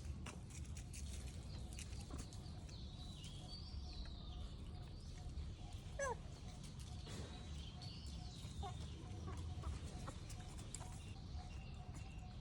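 Scattered short animal calls, the loudest a sharp sweeping call about six seconds in, over a steady low background noise.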